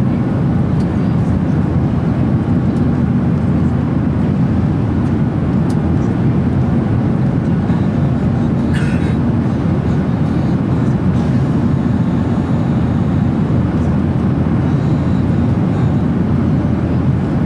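Steady in-flight cabin noise inside a Boeing 737-800: engine and airflow noise, strongest in the low range. There is a brief faint rustle about nine seconds in.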